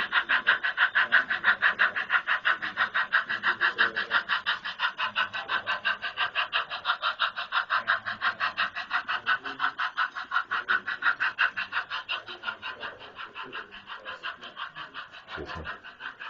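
Model train running on the layout, a steady rhythmic clicking of about four beats a second that fades over the last several seconds as the train moves away. A soft low thump near the end.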